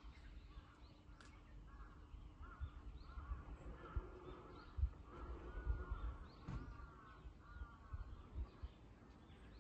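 Birds calling faintly, short arching calls coming in clusters, over low rumbling on the microphone.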